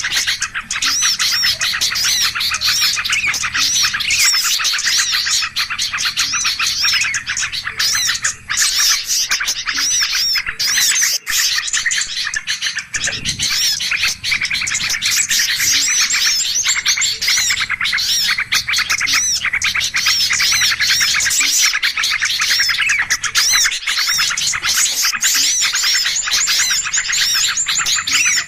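A dense chorus of small songbirds chirping rapidly and without pause, the many high, repeated notes overlapping: a bird-lure (pikat) recording of agitated birds, played to draw other small birds in.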